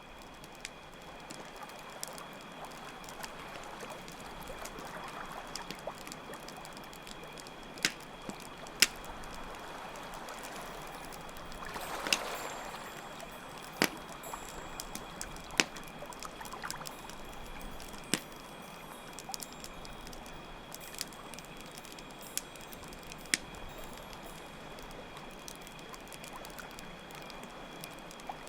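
Layered campfire-and-nature ambience: a campfire crackling with scattered sharp pops, over steadily running water that swells once about twelve seconds in, with a continuous trill of chirping crickets.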